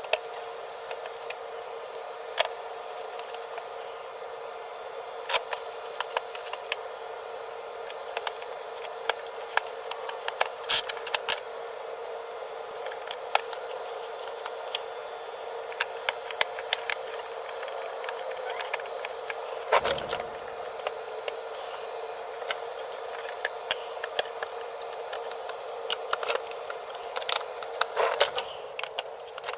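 Plastic vacuum cleaner parts being handled and fitted back together: many scattered clicks and knocks, a few louder ones about eleven and twenty seconds in, over a steady hum.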